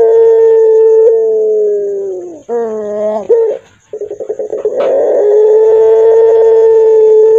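Puter pelung dove cooing its long, drawn-out, hoarse call: a steady held note that falls away about two seconds in, short wavering notes, a brief pause, then a second long held note.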